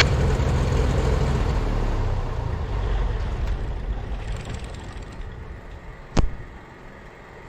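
Cessna T310R's engines running down after shutdown, the low rumble fading away over about five seconds. A single sharp click follows about six seconds in.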